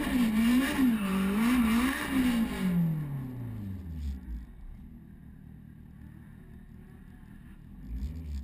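Turbocharged Honda K-series four-cylinder engine heard from inside the car, revved up and down in quick blips for the first two and a half seconds. The revs then fall away and it settles to a quieter, steady idle, picking up a little near the end.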